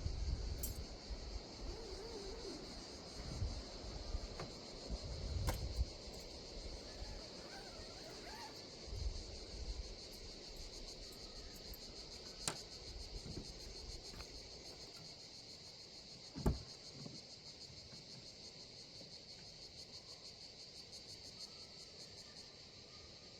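A steady, high chorus of insects trilling. Wind buffets the microphone in the first few seconds, a few sharp clicks sound, and a single low thump comes about two-thirds of the way through.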